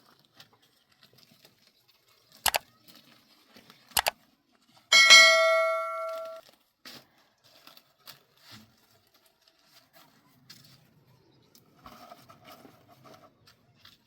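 Two sharp double knocks, then a metal object struck once, ringing out with a clear bell-like tone that fades over about a second and a half; a fainter ring follows near the end.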